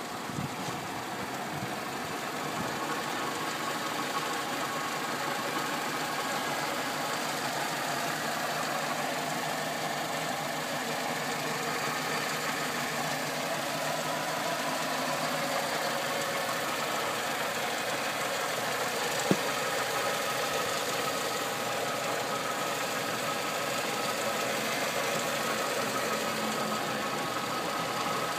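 Nissan Micra's four-cylinder engine idling steadily, heard close up in the open engine bay. A single sharp click stands out about two-thirds of the way through.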